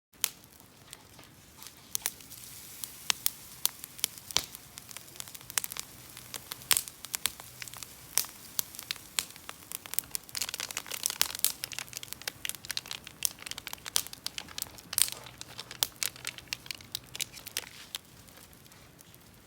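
Campfire crackling, with irregular sharp pops over a soft hiss.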